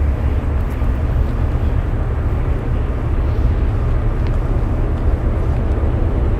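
Diesel freight locomotives running, a steady low rumble with no change through the stretch.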